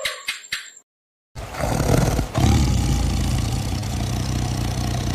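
A short rhythmic jingle of bells and clicks that stops under a second in; after a brief gap, a large animal's deep, rough growl starts and carries on steadily, dipping briefly once.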